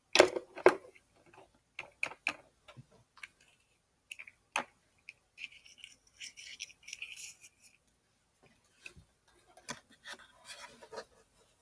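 Small plastic toys being handled and set down: scattered clicks and taps, with short bouts of light scraping and rubbing about halfway through and near the end.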